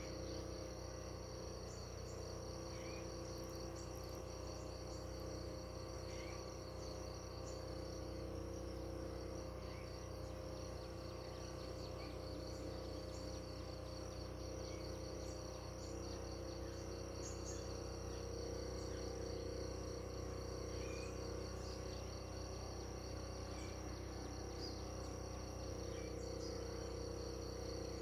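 Crickets chirping in a steady, rapid trill, with a few short bird chirps scattered through.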